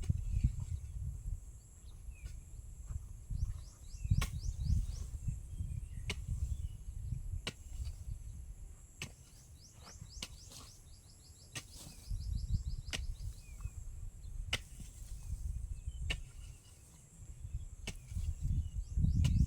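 Sharp strikes about every one and a half seconds, like a hand tool chopping. Behind them are a steady high insect drone, small bird chirps and uneven low rumbling.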